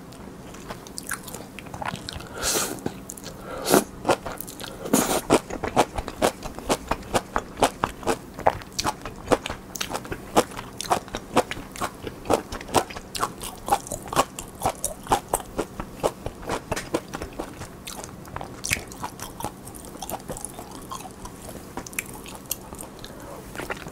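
Close-miked chewing of crunchy mustard-leaf kimchi (gat kimchi): a quick, steady run of wet crunches and mouth clicks, about two or three a second.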